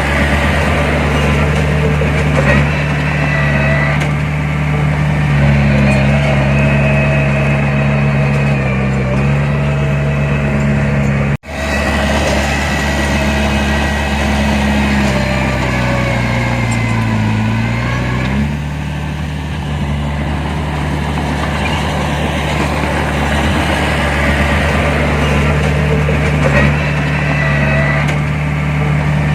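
Heavy diesel engine of earthmoving machinery running steadily. Just past the middle its pitch sags for a couple of seconds, then comes back up. Shortly before halfway the sound cuts out for an instant.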